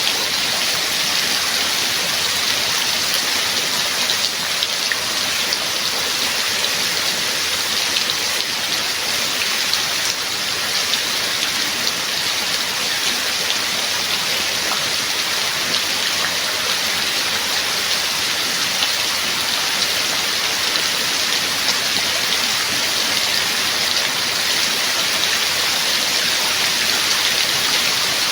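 Steady rain falling, an even hiss of many drops with faint scattered patters, holding at one level throughout.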